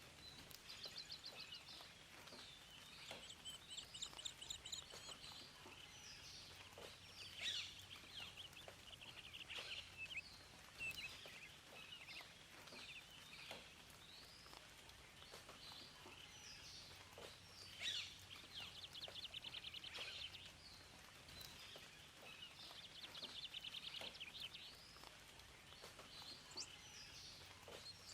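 Several songbirds singing and chirping over one another, with rapid trills and short whistled phrases, over a faint steady hiss.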